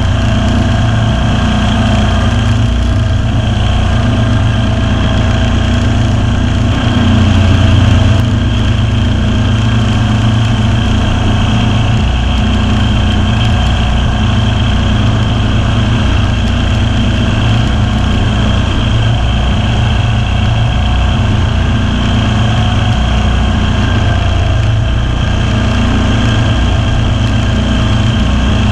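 Ferris zero-turn mower's Kawasaki V-twin engine running steadily at working speed, with a brief swell in loudness about a quarter of the way in.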